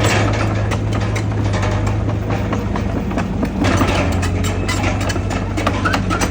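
Heavy diesel engine of earthmoving machinery running steadily with a low hum, over frequent metallic clanks and rattles.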